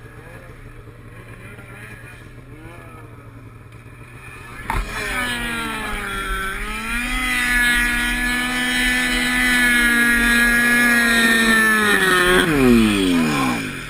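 A vehicle engine runs quietly with a low hum. About four and a half seconds in, an engine is suddenly revved hard, dips, then holds a high steady whine for several seconds. Near the end the revs drop off quickly.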